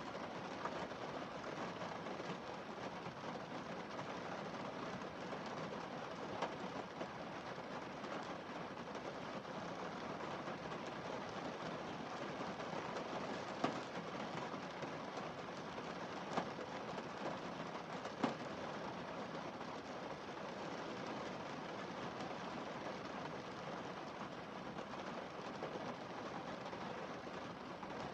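Rain falling on a car windscreen: a steady, even hiss of drops on the glass, with four louder single drop hits spread through it.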